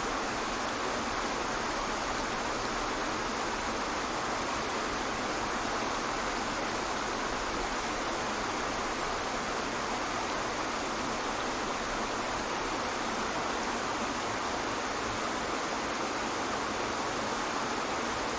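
Waterfall: a steady, unchanging noise of falling water.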